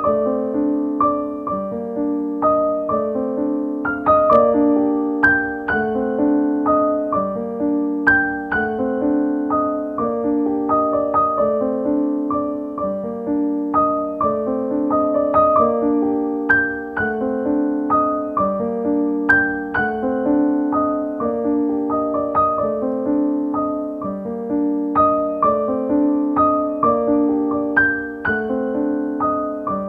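Background piano music: an even flow of struck notes over a lower line of held notes.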